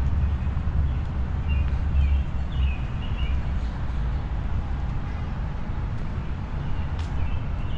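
Downtown street ambience: a steady low rumble of traffic, with short high bird chirps scattered through.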